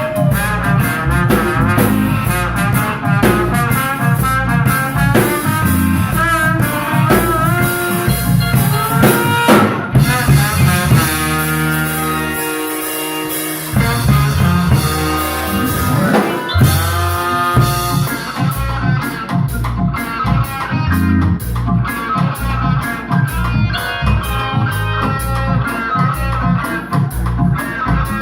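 Live instrumental band playing, with drum kit, guitar and brass. About eleven seconds in the drums drop out for a few seconds under long held notes, then the full band comes back in.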